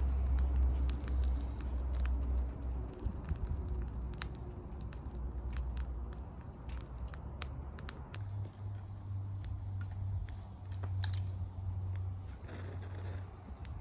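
Wood campfire crackling, with scattered sharp pops, over a low steady rumble.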